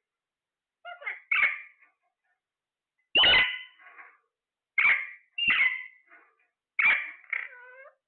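Parrot giving a series of about seven short, harsh calls, several in close pairs, with silences between them.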